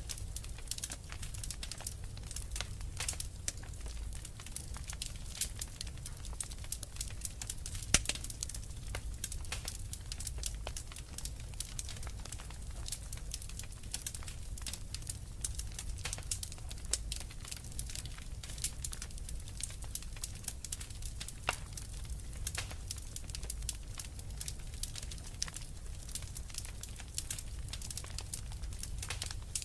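Wood fire burning in a fireplace: a steady low rumble of flames with irregular crackles and small pops throughout, one louder pop about eight seconds in.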